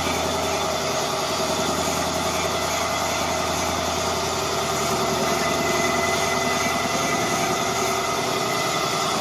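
A machine running steadily at a constant speed: an even mechanical hum with several fixed tones.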